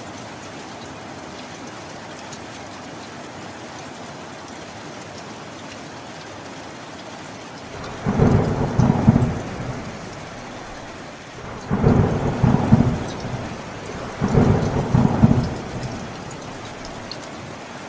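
Steady rain with three loud rolls of thunder in the second half, a couple of seconds apart. Each roll crackles for a second or so.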